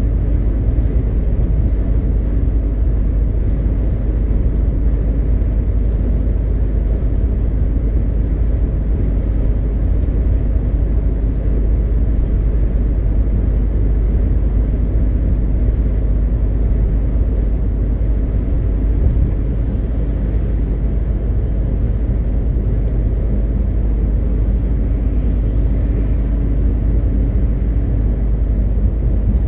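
MAN TGX 520 truck's straight-six diesel engine and tyres on the move: a steady, low drone and road rumble that does not change.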